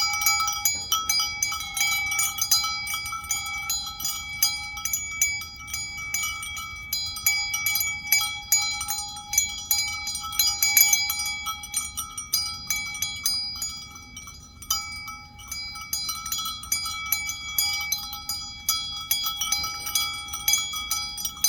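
A metal bell ringing over and over: one bell struck again and again in quick, uneven clanks, its same few tones ringing on throughout.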